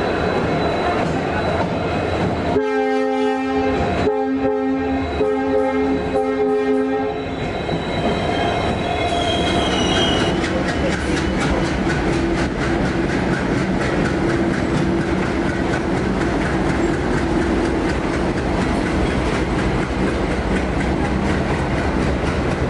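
Indian Railways train at a station platform: the locomotive horn sounds a chord in several blasts for about five seconds, starting a few seconds in, then the wheels rumble and clack over the rail joints as the carriages roll by, with a brief squeal near the middle.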